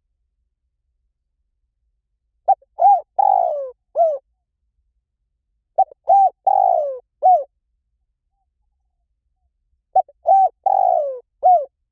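Spotted dove cooing: three phrases a few seconds apart, each of four or five notes, with one longer falling coo in the middle of each phrase.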